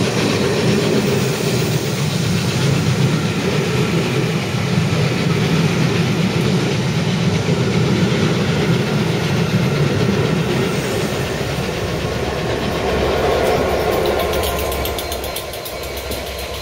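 Passenger coaches rolling past, wheels rumbling and clattering on the rails. Near the end the engine of the Class 67 diesel locomotive on the rear comes past as a low hum.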